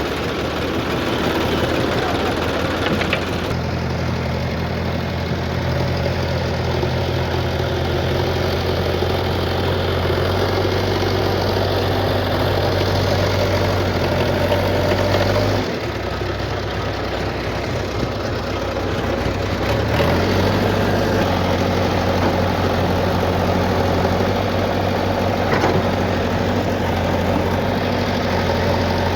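Heavy vehicle's diesel engine running steadily, its speed changing a few times: it picks up a few seconds in, drops briefly about halfway through, then picks up again.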